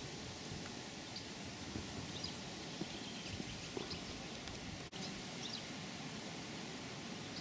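Steady outdoor background hiss with faint, scattered short bird chirps. The sound drops out for an instant about five seconds in.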